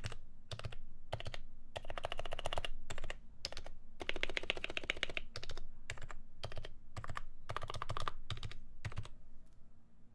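Typing on a Happy Hacking Keyboard Professional with 45 g Topre switches, lubed and fitted with Silence-X rings: single keystrokes mixed with quick runs of strokes, stopping about nine seconds in.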